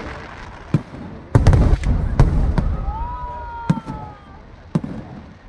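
Aerial fireworks bursting: about nine sharp bangs with a low rumble, the loudest run packed together in the first half, then scattered single bangs. A long high tone bends up and slowly falls partway through.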